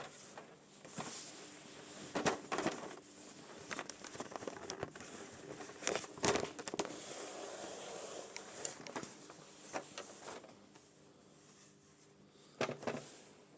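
Irregular handling noises: rustling and scraping broken by sharp clicks and knocks, the loudest about two, six and thirteen seconds in.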